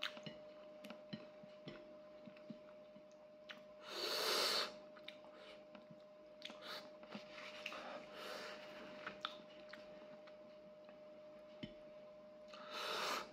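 A person chewing and eating with the fingers: small wet mouth clicks and light taps scattered throughout, with two louder breaths, one about four seconds in and one near the end. A faint steady hum sits under it.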